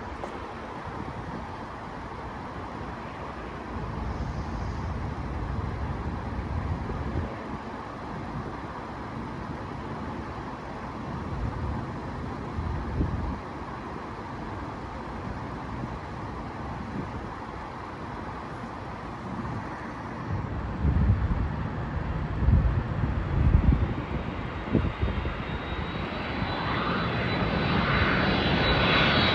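Jet engines of a UPS Boeing 767 freighter on approach to land: a steady distant rumble that grows louder over the last few seconds, as a high engine whine comes in. Gusty low buffeting from wind on the microphone in the second half.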